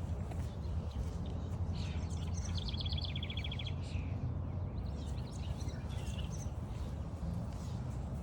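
Songbirds calling over a steady low rumble. About two seconds in, one bird gives a rapid trill of evenly spaced high notes lasting about a second and a half, with scattered short chirps after it.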